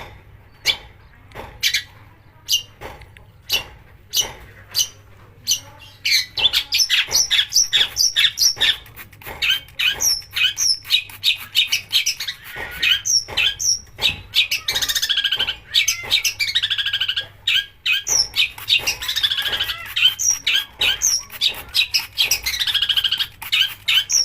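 Long-tailed shrike (cendet) singing a fast, varied song of harsh chattering and mimicked notes. For the first few seconds it gives sparse sharp notes, then breaks into a dense run with several rasping downward sweeps.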